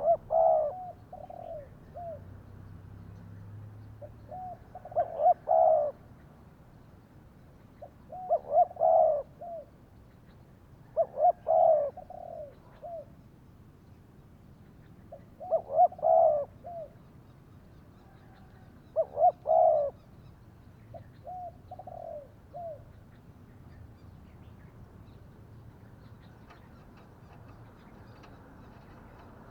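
Spotted dove cooing: six loud phrases of low coos a few seconds apart, with softer single coos between them.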